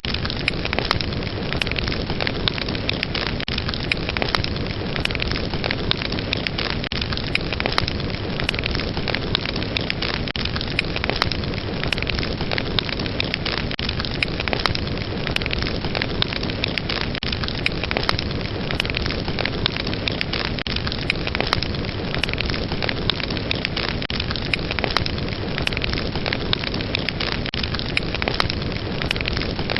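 Wood fire burning with a steady rushing hiss and many sharp pops and crackles scattered throughout.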